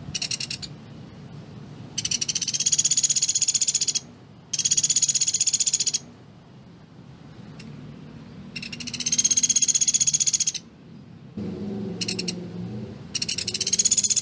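Pelatuk beras woodpecker giving its rapid, tightly spaced trilling calls: about six bursts, most lasting around two seconds, separated by short pauses, with a brief one at the start and another about twelve seconds in.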